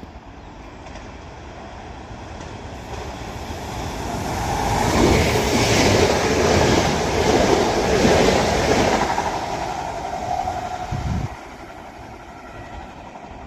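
TransPennine Express Class 397 electric multiple unit running through the station at speed without stopping. The wheel and rail noise builds over about five seconds and stays loud for several seconds. It then eases and drops off abruptly about eleven seconds in.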